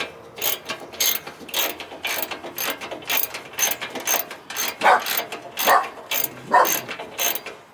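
Hand ratchet wrench clicking in short back-and-forth strokes, about two to three clicks a second, as parts are unbolted.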